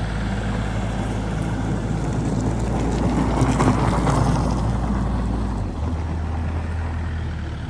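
Excavator diesel engine running steadily with a low hum. A rushing swell of noise rises and falls in the middle, and the engine's low tone shifts near the end.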